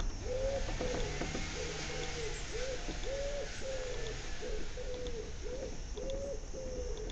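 A bird calling with a long, even series of short, low, arched notes, about two a second, over a faint steady hiss.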